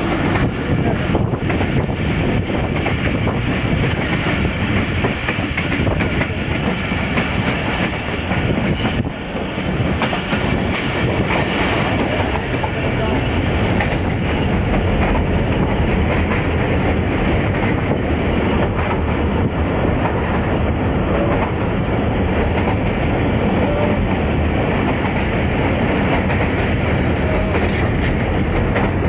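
Passenger train running, heard from a carriage window: a steady rumble and clatter of wheels on the rails, carrying on as the train rolls out onto a steel girder bridge.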